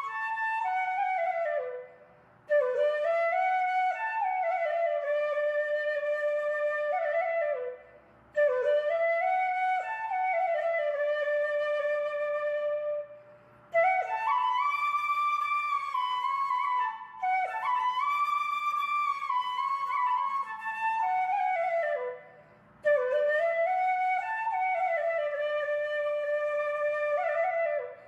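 Background music: a solo flute playing a slow melody in long phrases, with short breaths between them.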